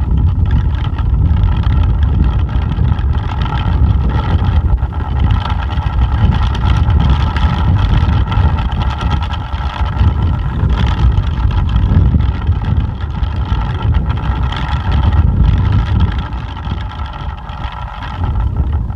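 Plastic pinwheel spinning in strong wind with a steady whirring hum, over a heavy low rumble of wind on the microphone.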